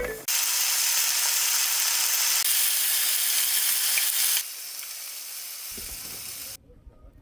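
Meat sizzling on a hot grill, a steady hiss that drops to a quieter level partway through and then stops abruptly.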